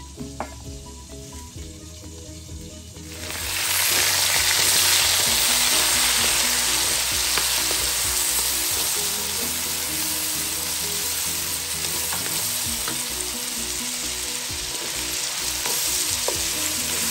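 Pork pieces, red onion and tomato sizzling in hot oil in a pan as they are sautéed and stirred with a wooden spatula. The loud sizzle starts abruptly about three seconds in and then holds steady.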